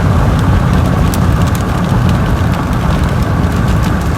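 Steady low rumble of road and engine noise inside a moving car, with scattered light ticks.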